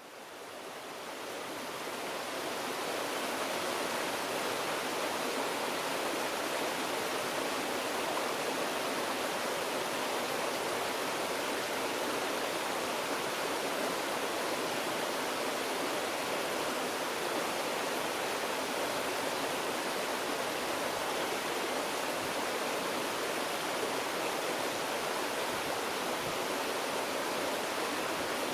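Shallow stream babbling over stones, an even, steady rush of water that fades in over the first few seconds.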